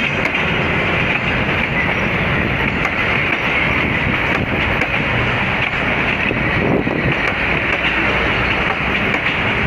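Passenger train hauled by a CC 204 diesel-electric locomotive on the move: a loud, steady rumble of the train running on the rails.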